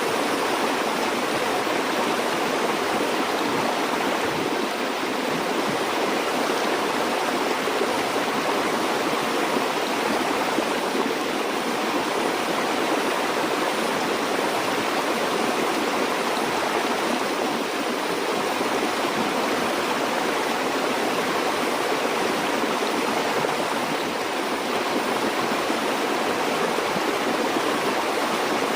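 River or stream water flowing steadily: an even, continuous rush with no breaks.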